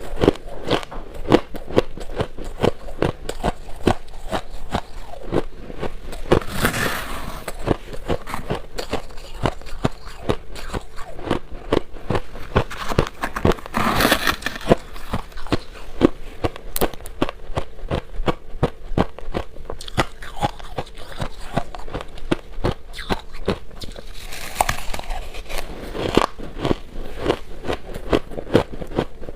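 Shaved ice being chewed close to the microphone: a steady run of rapid crunches, with three longer, louder crunching bursts spread through.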